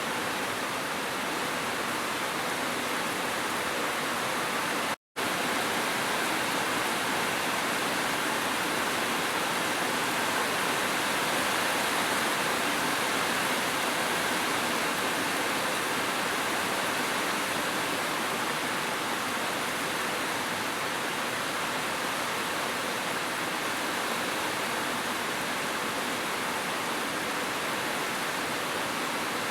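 Steady rush of a waterfall mixed with gentle rain, an even hiss of falling water. It cuts out for a split second about five seconds in.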